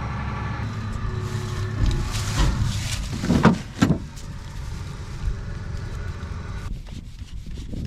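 An engine running steadily, with a few knocks between about two and four seconds in. Its higher hum drops away near the end, leaving a low rumble.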